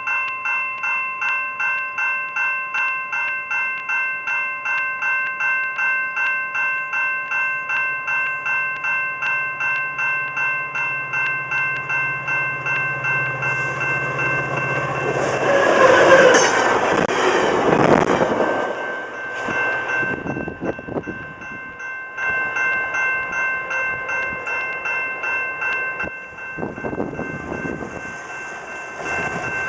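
Railway level-crossing warning bell ringing in steady, even pulses while a VIA Rail passenger train approaches and passes. The train's rushing rumble swells about fourteen seconds in, is loudest around sixteen to eighteen seconds, then fades, and the bell rings on afterwards. Near the end, a car drives over the crossing.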